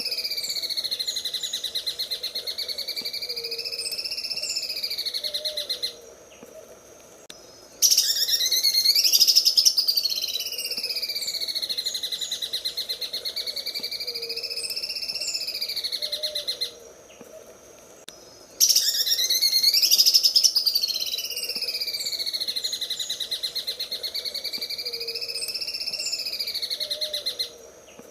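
Cucak ijo (green leafbird) singing its 'sewing machine' song: long, fast buzzing trills that swoop slowly up and down in pitch, in phrases several seconds long with short pauses between.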